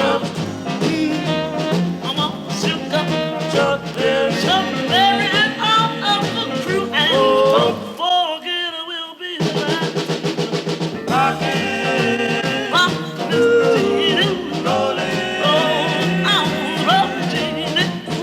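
Upbeat swing-style band music in an instrumental stretch, with a lead line carrying the melody. About eight seconds in, the bass and low instruments stop for a second and a half, leaving the melody line alone, then the full band comes back in.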